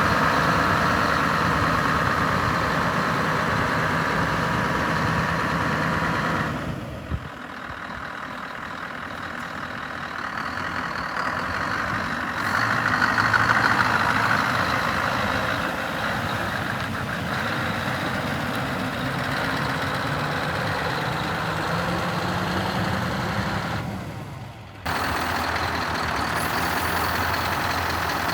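Scania R560 truck's V8 diesel engine running steadily near idle. It grows louder for a few seconds partway through, and the level drops and comes back abruptly twice.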